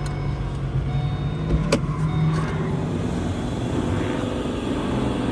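Pontiac G8 GT's straight-piped 6.0 L V8 idling with a low, pulsing rumble. Over it, for the first couple of seconds, an electric power-window motor hums, then stops. There is a single click near the middle.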